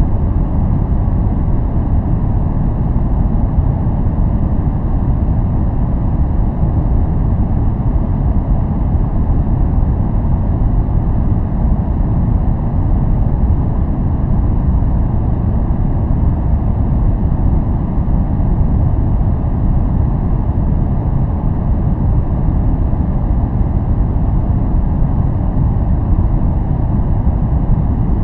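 Steady, unchanging noise track of the white-noise kind. Most of its weight is in the low end, giving a deep, even rush with little high hiss.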